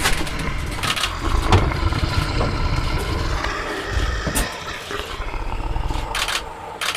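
Lion growling and roaring, a low, continuous rumble.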